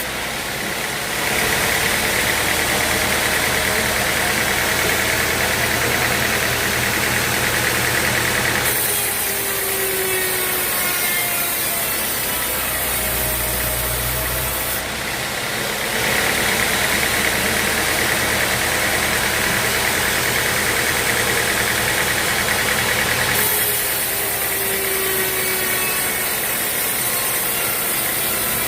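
Sawmill machinery running with a steady low motor hum. A louder, higher cutting noise comes in twice for about seven seconds each, with quieter running between.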